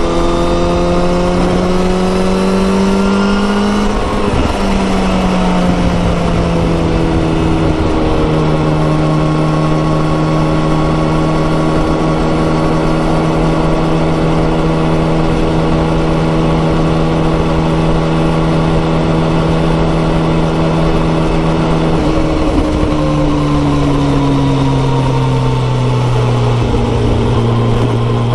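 Kawasaki ZX14R's inline-four engine through a Yoshimura exhaust, running under way on the road. It revs up, drops in pitch sharply at a gear change about four seconds in, holds a steady cruising note, then steps down and eases lower in the last several seconds.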